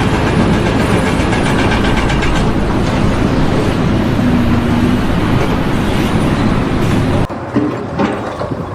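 Loud, steady mechanical rumbling and rattling that cuts off suddenly near the end.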